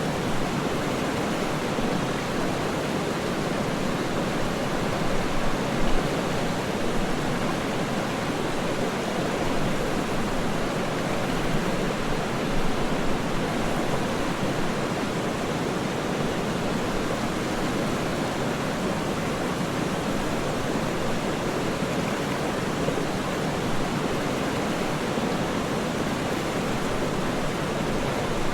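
Waterfall rushing in a steady, unbroken roar of falling water, deep rather than hissy.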